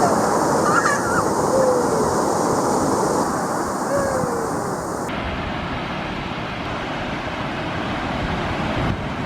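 Ocean surf washing in with wind buffeting the microphone, and a few faint high calls in the first few seconds. About five seconds in the sound changes abruptly to a steadier, duller rush.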